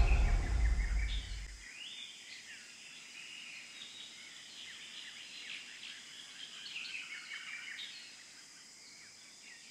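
The tail of a low music cue fades out over the first second or so, leaving faint birds chirping: many short, quick high calls that thin out near the end.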